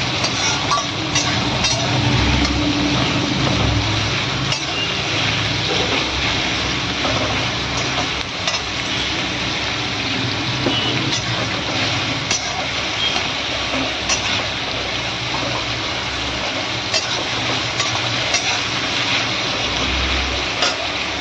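Sliced onions sizzling in hot oil in a steel kadai, stirred with a flat metal spatula that scrapes and clicks against the pan now and then.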